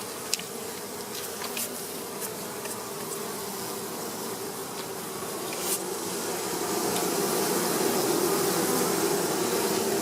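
Honey bees buzzing around an open hive, a steady hum that grows louder over the last few seconds, with a few light clicks; the colony is calm, not in a frenzy, on a cold day.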